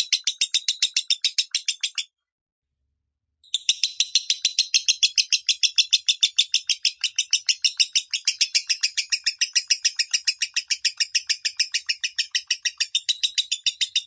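Lovebird singing in the 'minor' voice: a fast, even chattering trill of about six notes a second. One bout stops about two seconds in, and after a short pause a long unbroken run of the trill starts.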